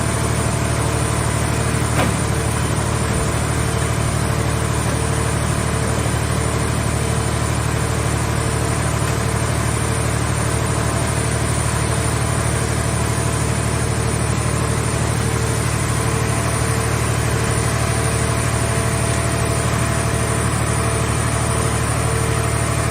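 Scrap car-shell baler's power unit running steadily with a deep, even drone and a pulsing tone above it. There is one short click about two seconds in.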